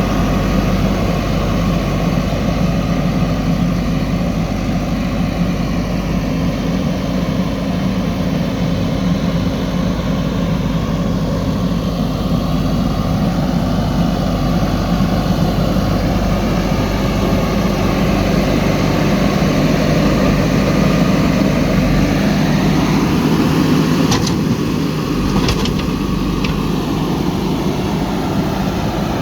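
JCB 3DX backhoe loader's diesel engine running steadily, with a few short sharp knocks near the end.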